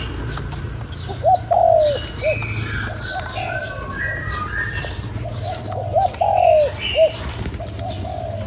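Spotted dove cooing: two phrases about five seconds apart, each a short note, a longer falling coo and another short note. Smaller birds chirp higher in pitch in between.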